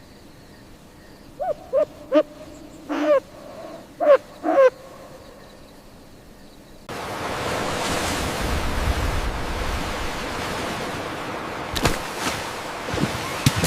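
A run of about six short, pitched animal calls over about three seconds, then a steady rushing noise that starts about seven seconds in, with a few sharp clicks near the end.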